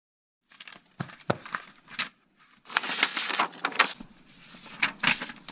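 Crackling fire sound effect: a rushing, crackling noise with several sharp cracks. It starts about half a second in, swells louder about halfway through, and goes on crackling.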